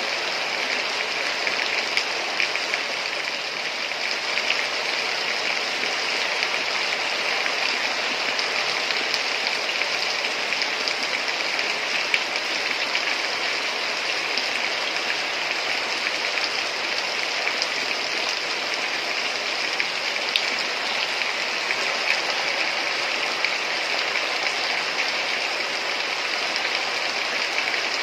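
Heavy rain falling steadily: a dense, even hiss with scattered individual drop ticks.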